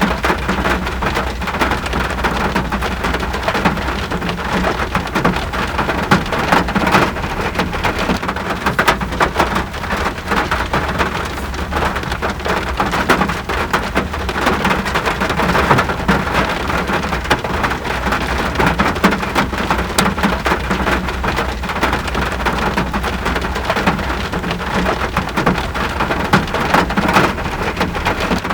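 Steady rain falling, with dense, fine patter of drops hitting a surface close by, over an unchanging low rumble.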